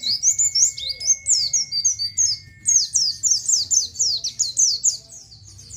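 White-eye (pleci) singing a fast run of high, sharply falling 'ciet' chirps, several a second, with a short break midway and trailing off near the end.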